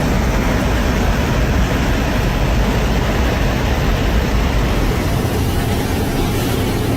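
Loud, steady rush of wind and engine noise heard inside an airliner cabin with an emergency exit door open in flight.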